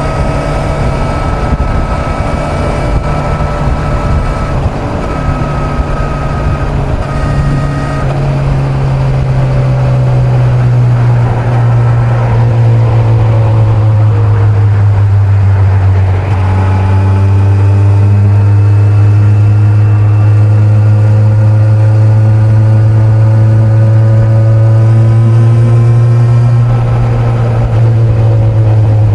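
Kawasaki Z900's inline-four engine running at steady highway speed, with wind rush. The engine note drops a little about a third of the way through, then holds steady.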